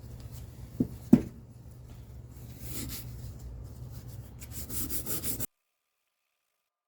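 Hand scrubbing strokes over a steady low hum, with two sharp knocks about a second in. The sound cuts out abruptly after about five and a half seconds.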